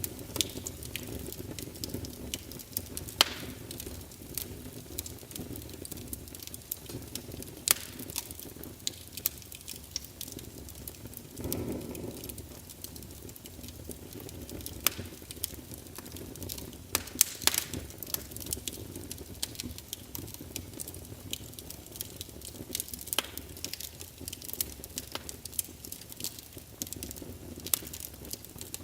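Wood fire burning in a fireplace: logs crackling with irregular sharp pops and snaps over a steady low rush of flame, with a brief swell of the flame sound about twelve seconds in.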